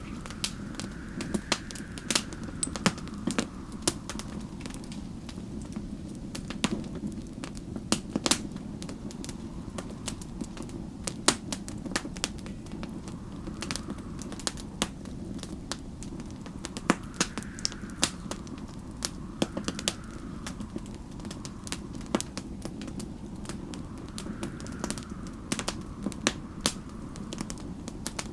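Wood fire crackling, with irregular sharp snaps and pops over a steady low rumble. Snowstorm wind howls faintly behind it, rising and falling every few seconds.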